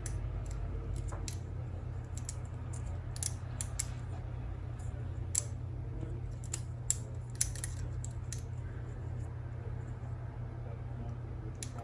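Scattered small sharp clicks and ticks of a cassette walkman's tape mechanism parts being handled and turned by hand, irregularly spaced, over a steady low hum.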